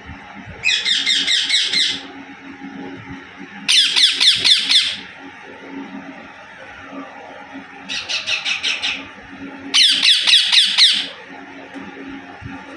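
Rose-ringed parakeet (Indian ringneck parrot) screeching in four loud bursts of rapid, repeated high calls, each lasting about a second.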